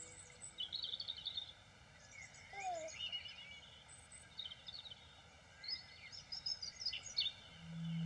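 Birds chirping and singing, a scatter of short high calls and trills over a faint steady hiss.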